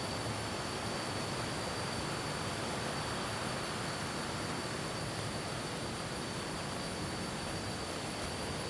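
Steady rushing of flowing water, with an insect's continuous high-pitched drone running through it.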